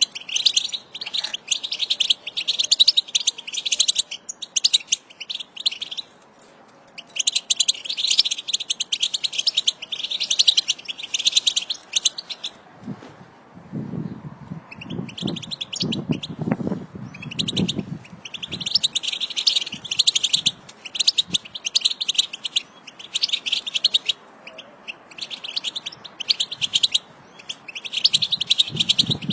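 Several European goldfinches chattering together in rapid, dense twittering bursts of a few seconds each, separated by short pauses. From about thirteen to eighteen seconds in, a low, rough sound runs under the birds.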